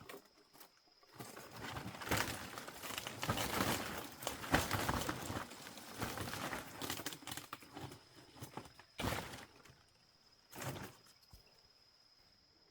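Dense rustling and crackling with many small clicks for several seconds, then two short bursts of rustling near the end. A steady high insect trill runs underneath.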